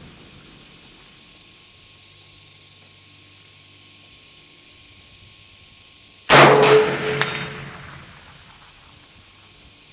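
A single shot from an SKS rifle about six seconds in, its report ringing and fading over a second or so, with a faint metallic ping about a second after the shot. Before it, a steady low wind rumble.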